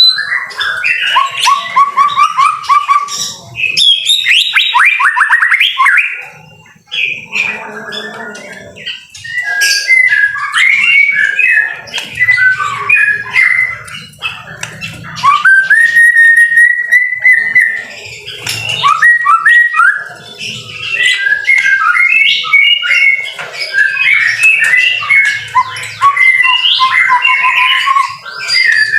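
White-rumped shama (murai batu) singing a long, varied song of rich whistles, rapid trills and chattering phrases, with one long held whistle partway through and a short pause about a third of the way in.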